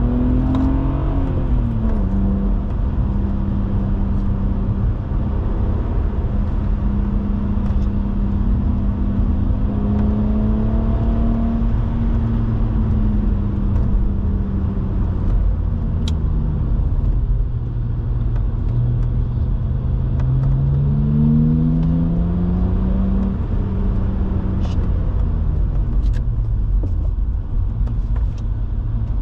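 BMW E87 130i's 3.0-litre inline-six engine running under load, heard from inside the car over tyre and road rumble. The engine note drops sharply about a second in as it shifts up, sinks slowly as the car slows mid-way, then climbs under acceleration before two more upshifts near the end.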